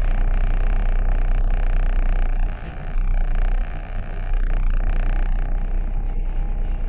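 Steady low rumble of a moving car's engine and road noise, picked up by a dashcam. The level drops briefly twice near the middle.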